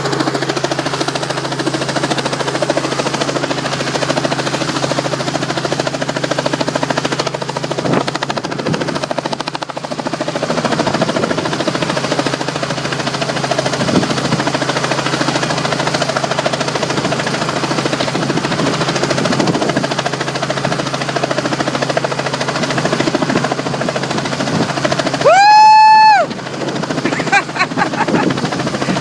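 Helicopter overhead, its rotor making a steady, rough drone. About 25 seconds in, a loud high whistle-like tone rises sharply and holds for about a second, followed by a few fainter short tones.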